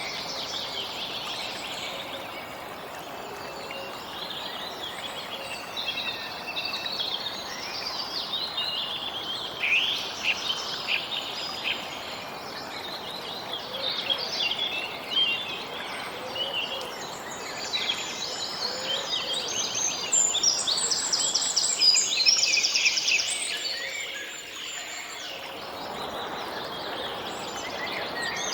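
Many songbirds chirping and trilling over a steady outdoor hiss, the calls thinning briefly about three-quarters of the way through.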